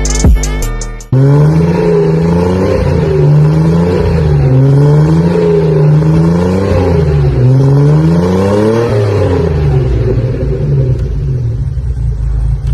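Mercedes-Benz 280GE G-Wagon's straight-six engine blipped through an aftermarket Gibson exhaust and Thrush muffler. It is revved up and let fall several times, then settles to a steady idle for the last few seconds.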